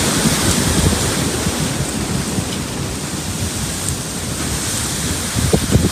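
Strong gale-force wind blowing hard, with heavy rumbling buffets on the microphone.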